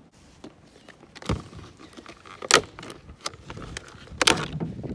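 Handling noise while a new outboard fuel line and its fittings are taken out and worked with: about five sharp knocks and clatters, the loudest about two and a half seconds in, with light rustling between them.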